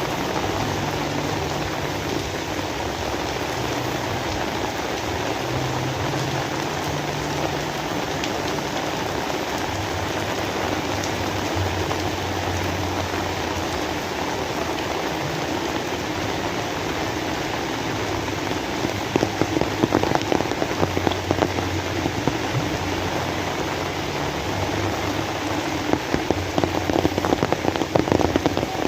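Steady rain falling, a continuous hiss of drops on surfaces. Spells of louder, sharper drop hits come through about two-thirds of the way in and again near the end.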